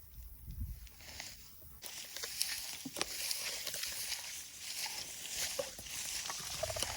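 Open-field ambience: a few low thuds of footsteps or handling in the first two seconds, then a steady high-pitched hiss from about two seconds in, with a few short faint calls near the end.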